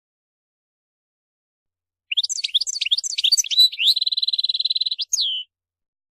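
European goldfinch singing: starting about two seconds in, a quick burst of twittering, sliding notes runs into a buzzy trill and ends on a falling note.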